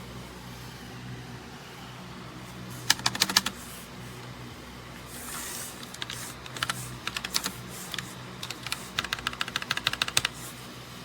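Typing on a typewriter-style mechanical keyboard: a quick flurry of key clicks about three seconds in, then a longer run of keystrokes over the second half.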